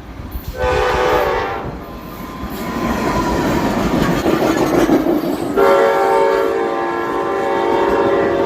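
Amtrak Cascades passenger train passing with its locomotive air horn sounding: a short blast about half a second in, then a long blast starting about five and a half seconds in and still held at the end. Between the blasts is the rumble and clatter of the train's wheels on the rails.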